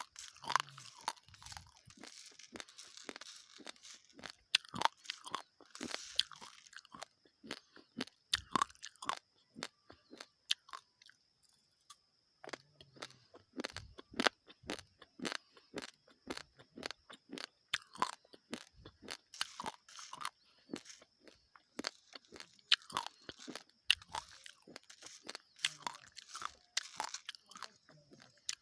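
Close-miked crunching of raw, uncooked basmati rice grains being chewed: dense, irregular clusters of sharp crackles, briefly pausing about halfway through.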